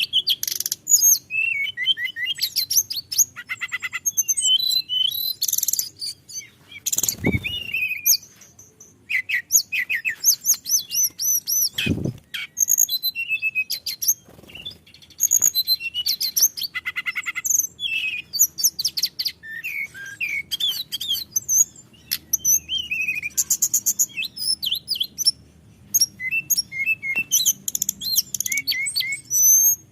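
Hill blue flycatcher (tledekan gunung) singing a long, unbroken run of varied whistled phrases and rapid trills, the 'ngerol' rolling song used to lure other birds. There are two short low thumps about 7 and 12 seconds in.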